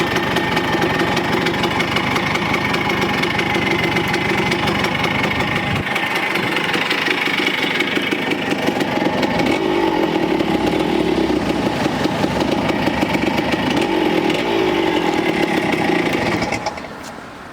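Two-stroke single-cylinder engine of a 1976 Kawasaki KE125 trail bike running, its revs rising and falling a few times; the sound drops away sharply near the end.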